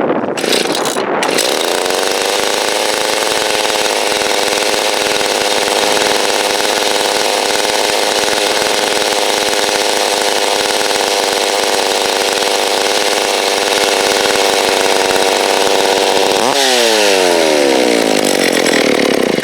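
Two-stroke engine of a freshly rebuilt McCulloch Timber Bear chainsaw running steadily on its first runs, with its speed climbing a little in the first couple of seconds before settling. Its idle is set too low.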